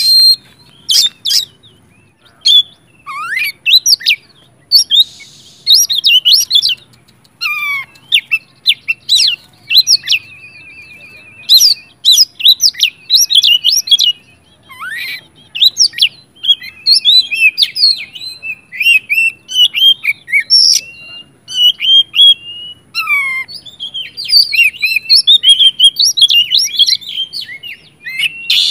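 Oriental magpie-robin singing loudly and almost without pause: fast, varied phrases of high whistles, chirps and sweeping notes, with a short buzzy trill now and then. It is a full, combative song.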